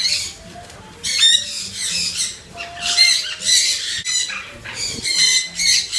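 Several cafe pet birds squawking and calling over and over, high-pitched calls coming every half second or so from about a second in.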